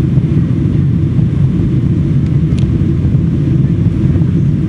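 Steady low rumble of a climbing Boeing 747-400 airliner, its four jet engines at climb power with airflow noise, heard inside the cabin.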